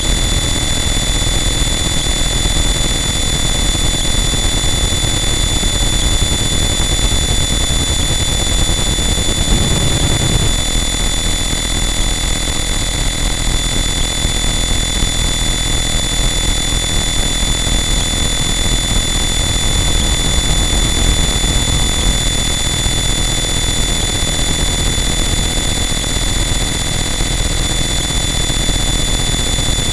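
Harsh noise wall: a loud, unchanging mass of dense distorted noise with steady high whining tones running through it, and a brief low swell about ten seconds in.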